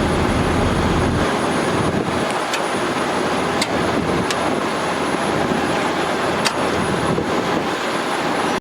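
Freightliner Coronado water truck running with its pump driven, a steady loud rushing; the deep rumble drops away about a second in, with a few sharp clicks over the rush.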